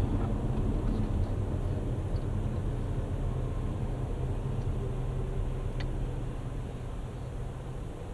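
Steady engine and road rumble of a moving vehicle, heard from inside the cabin, easing slightly toward the end, with one faint tick about six seconds in.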